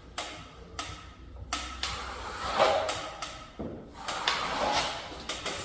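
Plastering trowel scraping filler across a plasterboard patch in a series of short strokes, one swelling louder about two and a half seconds in.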